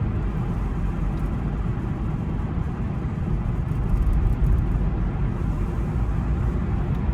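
Steady road and engine noise heard inside the cabin of a car being driven, a low, even rumble.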